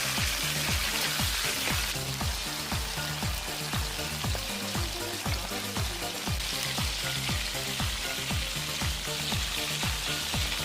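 Red sea bream sizzling in a hand-hammered frying pan over a wood fire, a steady frying hiss that swells and eases. Background music with a steady thudding beat plays along with it.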